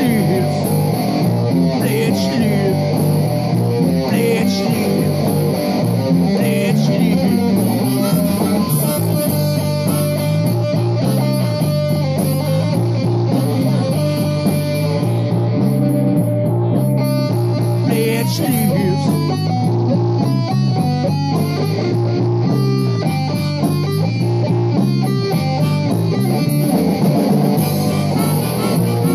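Rock band playing live: guitars over bass guitar and a drum kit, with no singing.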